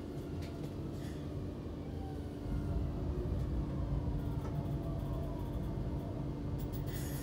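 Interior of a passenger train rolling along the rails: a steady rumble with a constant low hum, a little louder from about halfway through, and faint whines that fall slowly in pitch.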